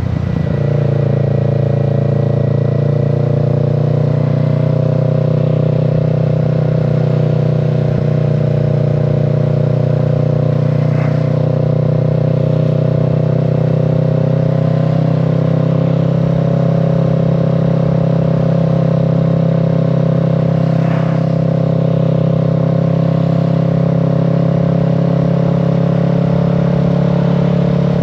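Kawasaki Z650's parallel-twin engine running at a steady, nearly constant engine speed while the motorcycle cruises, with almost no rise or fall in pitch.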